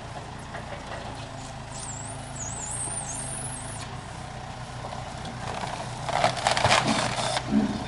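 A vehicle engine idling with a steady low hum. About six seconds in, a louder burst of hissing noise comes over it.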